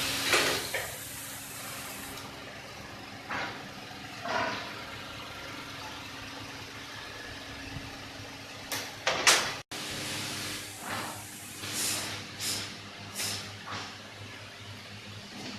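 Steady machine hum with a dozen short hissing bursts scattered through it, the loudest just after nine seconds in.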